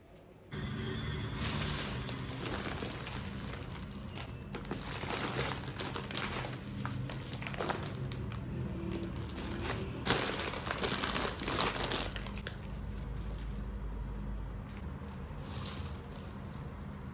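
Plastic packaging crinkling and crackling as it is handled. It starts suddenly about half a second in and carries on, with a low steady hum beneath.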